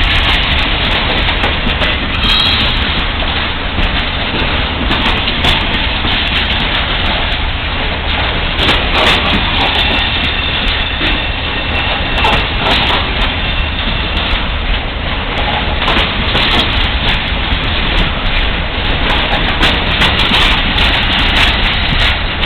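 Freight train rolling past: a loud, steady rumble of steel wheels on rail, with many sharp clicks throughout.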